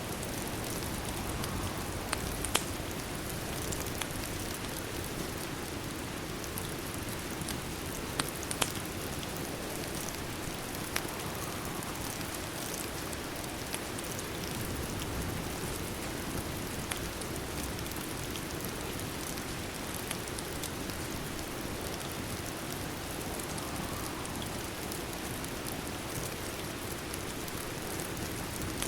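Steady rain pattering on a surface, with a few sharp clicks, the loudest about two and a half seconds in and a pair near eight and a half seconds.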